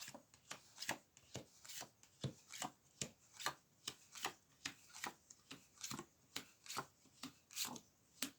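A deck of fortune-telling cards being shuffled by hand: a steady run of light card slaps, about two or three a second.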